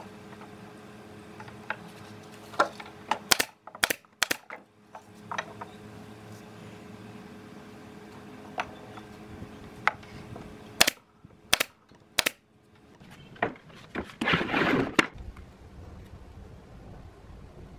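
Irregular sharp knocks and clicks of wood and tools being handled, over a steady low hum that stops about three-quarters of the way through, followed by a short rushing noise of about a second.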